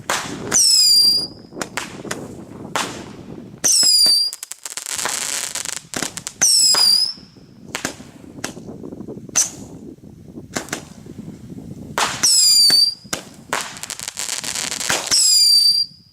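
Whistler fireworks going off: about five shrill whistles a few seconds apart, each sliding down in pitch and then holding briefly, with sharp cracks between them and two stretches of hissing.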